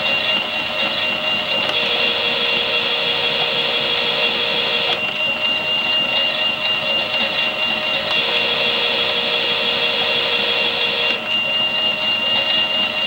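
Small electric motor of a toy Miele washing machine running steadily, with a constant high whine. Its tone shifts every three seconds or so as the wash action changes.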